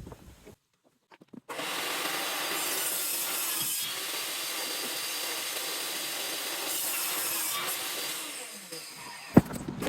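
Power saw cutting steadily through an IKEA cabinet side panel for about seven seconds, then winding down, followed by a single sharp knock near the end.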